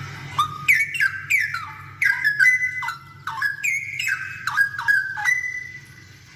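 Straw-headed bulbul (cucak rowo) singing: a quick run of loud whistled notes, many sliding down in pitch, that lasts about five seconds and stops shortly before the end.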